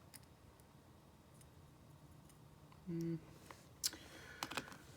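A few small, sharp clicks and taps of a screwdriver and small metal parts against a phone being reassembled, the loudest near the end, with a brief hum from the repairer around three seconds in.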